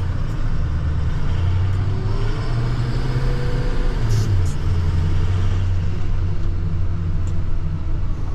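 Plow truck's engine and road noise heard from inside the cab while driving, a steady low drone that shifts pitch a couple of times as the engine speed changes.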